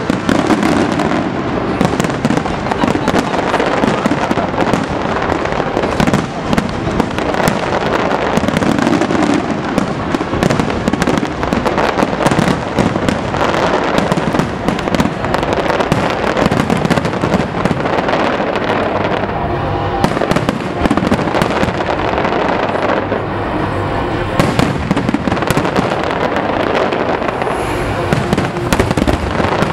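Fireworks finale: a dense, unbroken barrage of aerial shells bursting on top of one another, many sharp reports a second with no pause between them.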